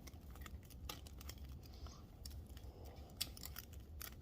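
Faint scattered clicks and small handling noises, a sharper tick about three seconds in, over a low steady rumble.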